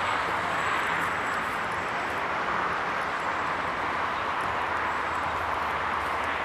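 Steady outdoor background noise: an even rushing sound with a low hum underneath.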